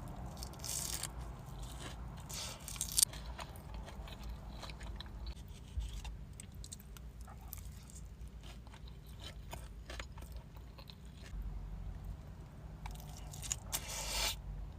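Close-miked chewing of a shrimp tempura sushi roll, with crunchy bites and wet mouth sounds coming in short clusters, the sharpest about three seconds in and near the end.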